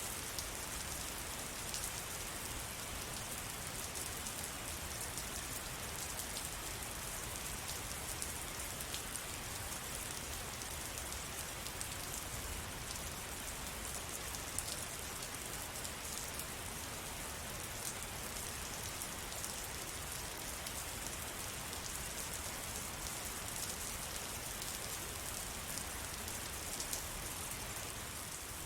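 Steady rain falling, with a dense patter of individual drops on surfaces.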